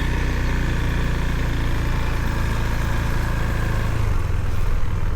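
Husqvarna Svartpilen 401's single-cylinder engine running at a steady speed, an even low drone.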